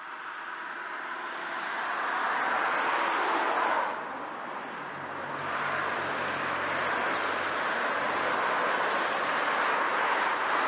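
A train running past on the rails: a steady rushing noise that builds over the first two seconds, eases slightly about four seconds in, then swells again.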